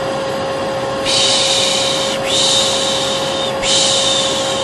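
Vacuum cleaner running steadily with a constant motor whine. Over it, a person's long 'shhh' shushing sounds start about a second in and come three times in a row, each lasting over a second: the 'piş piş' hush used to soothe a baby.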